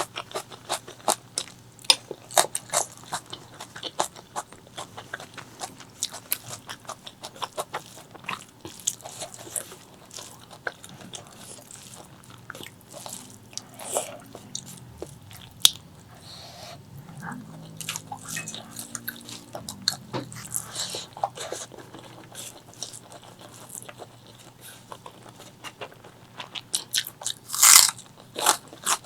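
Close-miked chewing and biting of spicy chicken liver and gizzard with rice: a steady run of wet mouth clicks and crunches, with a louder bite near the end.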